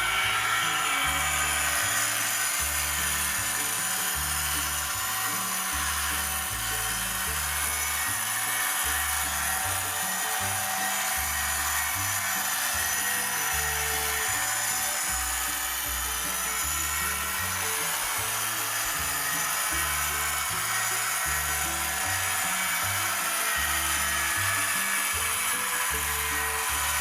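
Background music with a rhythmic bass line, over a steady grinding whir from the motor of a model railway track-cleaning car running along the track.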